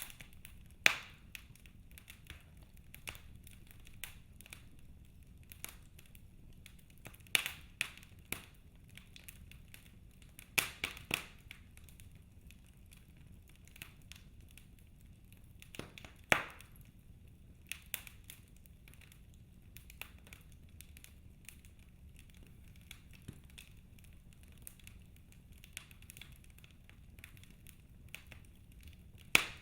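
Wood fire crackling: irregular sharp pops and snaps, some single and some in quick clusters, a few seconds apart over a faint low hiss.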